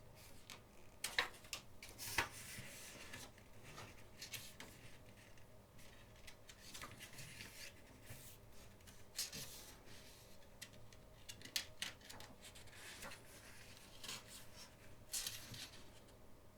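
Quiet rustling of paper and plastic with light taps and clicks as a CD album's case and photobook are handled, the pages being turned.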